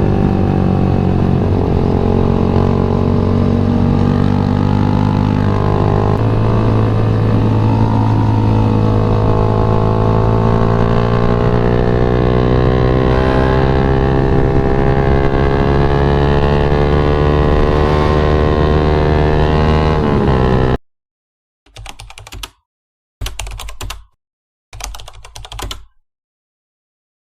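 Yamaha MX King 150's single-cylinder four-stroke engine running under way, its pitch drifting gently up and down with the throttle. It cuts off abruptly about 21 seconds in, followed by three short bursts of sound.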